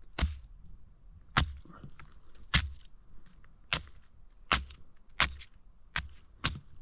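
Axe chopping apples to split them for deer bait: eight sharp chops, about a second apart at first and a little quicker near the end.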